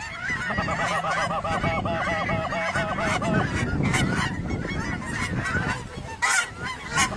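Geese honking in a rapid, evenly repeated run for the first few seconds, then a looser mix of honks and cackles with a few short sharp sounds in the second half.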